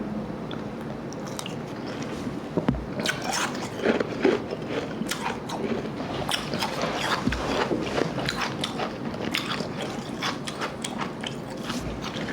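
Ice being bitten and chewed: slush ice mixed with harder bagged ice crunching in quick, irregular bites. The crunching picks up about two and a half seconds in, after a quieter start.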